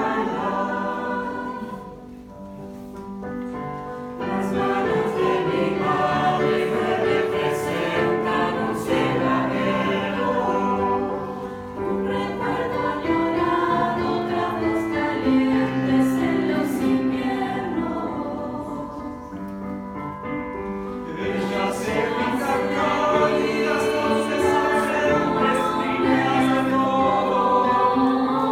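Youth choir singing in several voice parts, falling quieter twice before swelling again.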